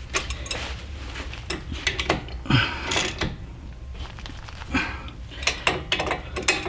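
Ratchet wrench clicking in irregular strokes, with metal clinks and scrapes, as a bolt is tightened down.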